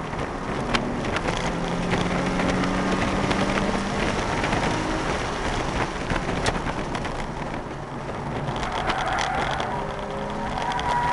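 Nissan 350Z's 3.5-litre V6 heard from inside the cabin while driving hard, its pitch climbing in two pulls, the second near the end, over heavy road and wind noise, with a few sharp clicks.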